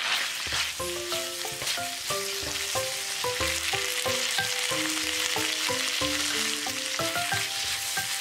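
Shrimp, udon noodles and vegetables sizzling steadily as they are stir-fried in a nonstick frying pan, with background music playing over it.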